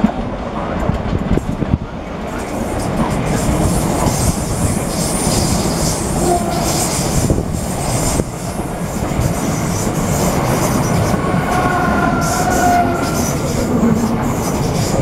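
Gatwick Express Class 442 electric multiple unit passing through at speed on the adjacent track: a steady rumble and hiss of wheels on rail with rail-joint clicks, and a brief wheel squeal about twelve seconds in.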